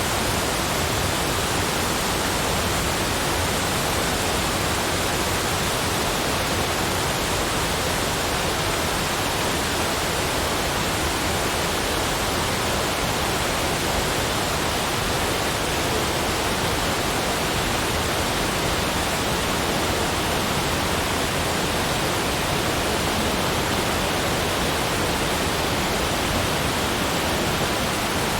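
Steady, even rushing noise, spread from deep to high pitches, with no separate sounds and no changes.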